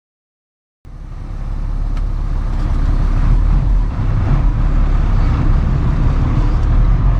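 Flatbed straight truck's engine running with a steady low rumble, heard from inside the cab; it cuts in suddenly about a second in and swells over the next couple of seconds.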